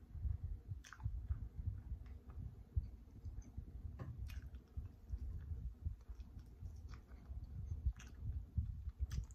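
Close-up chewing of a bite of crispy air-fried chicken drumstick, with sharp wet mouth clicks now and then: about a second in, twice around four seconds, and again near the end.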